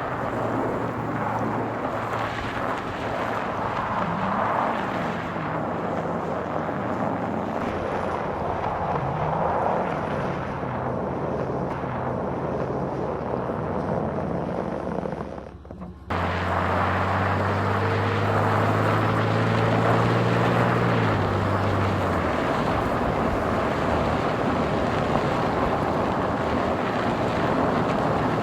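A car driving on a mountain road: steady engine and road noise, with the engine's pitch rising and falling. Roughly halfway through, the sound dips and then breaks off abruptly before resuming with a steadier engine note.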